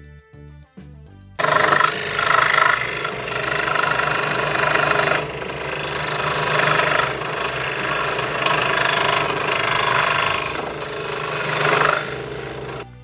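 Craftsman scroll saw running and cutting through pine board, a loud, steady buzzing rattle of the reciprocating blade that starts abruptly about a second in and stops just before the end.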